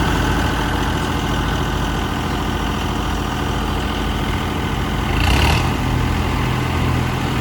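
A tractor's diesel engine running steadily at idle, with a brief louder hiss about five seconds in.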